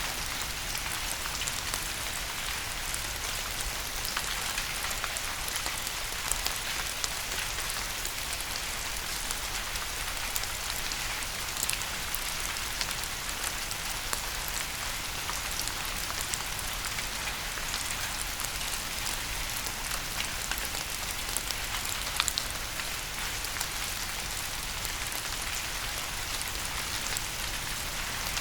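Steady rain falling on a surface, a constant hiss with many distinct drops ticking through it.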